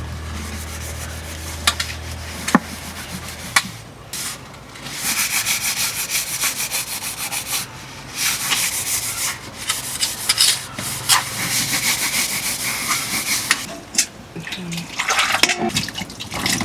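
Rapid, rhythmic scraping or scrubbing strokes in two long runs, with a low steady hum in the first few seconds and scattered clicks.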